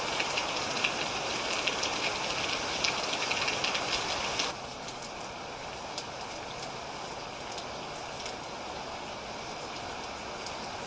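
Steady rainfall with individual drops pattering sharply over a continuous hiss. About four and a half seconds in, the rain abruptly becomes quieter and duller, like a cut to a different stretch of recording.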